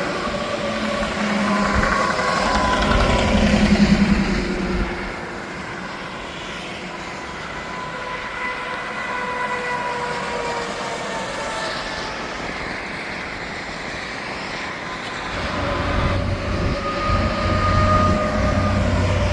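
Interstate traffic passing, semi-trucks among it. One vehicle goes by loudest about four seconds in, and its engine and tyre noise then falls away in pitch. A heavy vehicle with a low, steady engine hum comes closer near the end.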